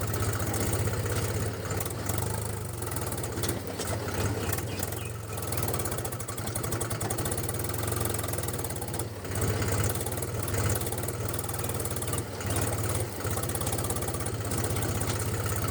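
A small engine running steadily with a fast, even chatter.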